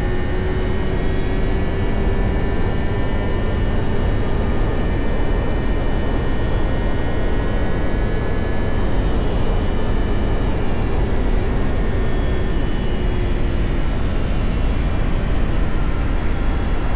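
Motorcycle cruising at a steady road speed: heavy wind rush over the microphone with the engine running steadily underneath, its pitch drifting slightly down and back up.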